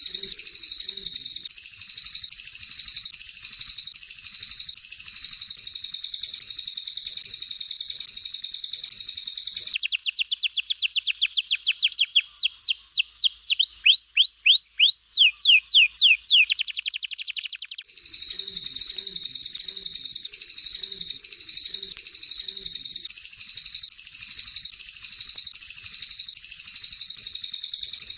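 Recorded songbird song for training birds, canary and cililin material: a dense, continuous high-pitched chattering song. About ten seconds in it gives way for several seconds to a rapid string of falling whistled notes, several a second, then the chattering song returns.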